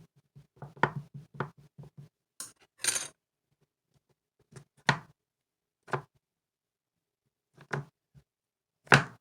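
Cloud slime being handled, giving irregular short sticky pops and crackles, with a longer crinkly burst about three seconds in and the loudest pop near the end.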